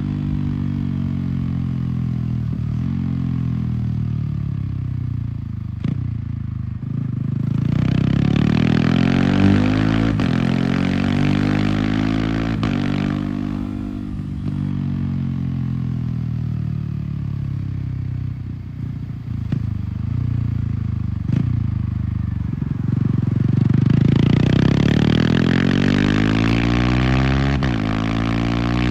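Yamaha R15's single-cylinder engine through an MTG aftermarket exhaust, repeatedly revving up and falling back as it accelerates and shifts gears with the quickshifter.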